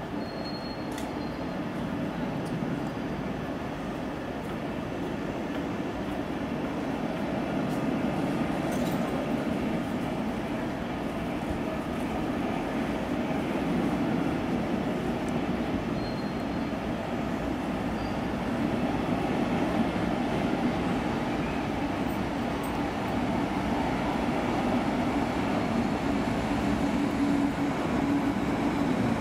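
Double-deck regional train pulling out of an underground station and rolling past, its wheels and coaches making a steady rumble that grows louder as it gathers speed. Near the end a steady hum comes in as the electric locomotive pushing at the rear draws level.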